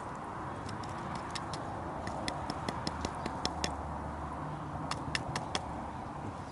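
A hand tool gouging out charred wood, giving a run of sharp, irregular clicks and scrapes, then a second short cluster about five seconds in.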